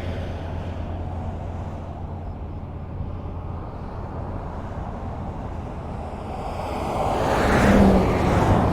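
Highway traffic: a steady rumble of tyres on the road with a low hum, and one vehicle approaching and passing close by near the end, swelling up and then falling away.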